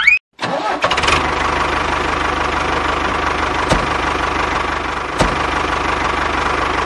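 Diesel tractor engine idling steadily with a regular knock. It starts about half a second in, right after a short rising chime cuts off.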